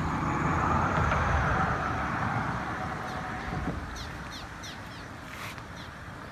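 A rushing roar that swells over the first couple of seconds and then eases off to a lower steady rush, with a few short high bird chirps about four seconds in.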